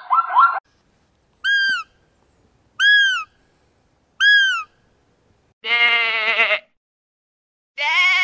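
Animal calls: a rapid chirping cuts off half a second in, then three short calls that rise and fall in pitch, about 1.4 s apart, then two longer quavering bleats.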